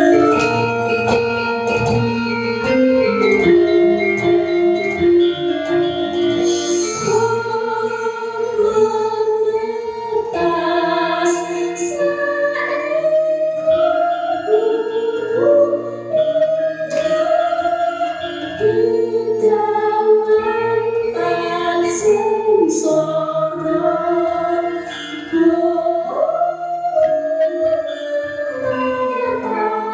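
Javanese gamelan music with a sung tembang melody, the voices holding long, gently sliding notes over the ensemble, with a few sharp accents partway through.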